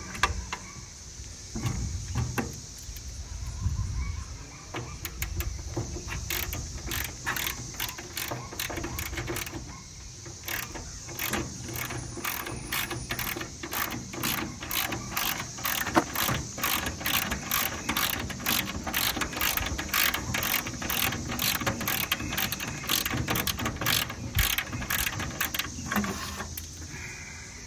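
Hand ratchet wrench clicking in long runs of quick clicks as bolts are backed out, after a few seconds of low knocking and handling of metal parts.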